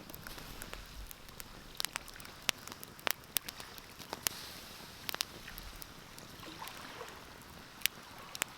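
Wood fire crackling in a fireplace: irregular sharp pops and snaps, a few of them loud, over a steady low hiss.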